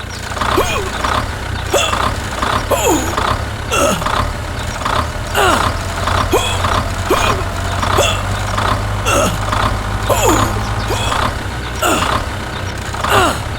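Vehicle engine running steadily, with a squeal that falls in pitch repeating about once a second, each with a short hiss.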